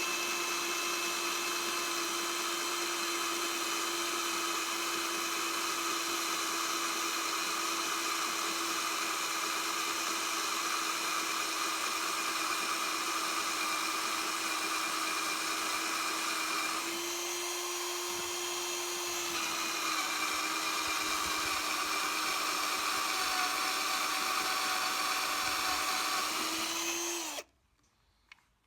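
Electric drill running steadily with a constant whine, drilling a pilot hole into a broken spoke left in a wire wheel. Its pitch rises briefly a little over halfway through, and the drill stops abruptly near the end.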